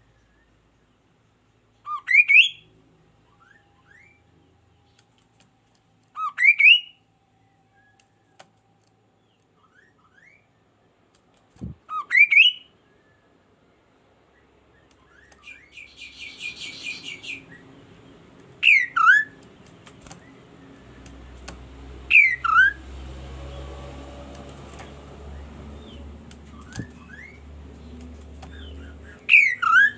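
A kaso-kaso bird giving a loud, sharp call six times, every few seconds, each call a quick upward-sweeping double note. A brief buzzy trill comes about halfway through, and a low background hum grows in the second half.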